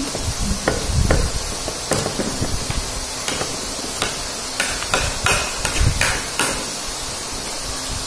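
Close-up eating sounds: a man chewing a mouthful of chicken adobo, with wet mouth clicks and lip smacks and a few light knocks, the clicks thickest around five to six seconds in.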